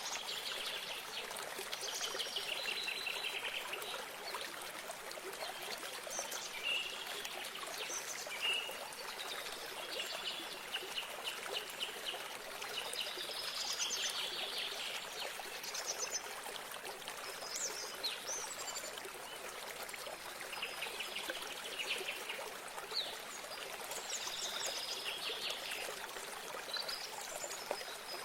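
Water trickling steadily, as from a small spring or stream, with songbirds calling over it in repeated short trilled and chirped phrases.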